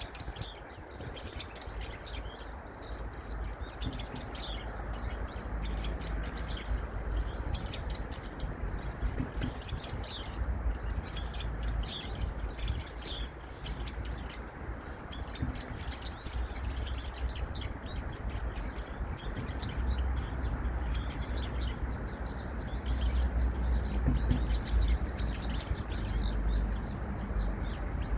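Small songbirds chirping and twittering: many short, high notes in quick scattered runs. Under them runs a steady low rumble.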